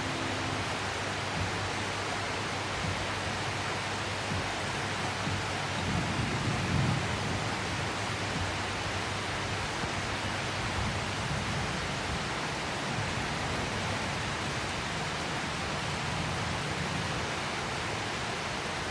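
Steady heavy rain, an even hiss with no pauses, and a brief low rumble about six seconds in.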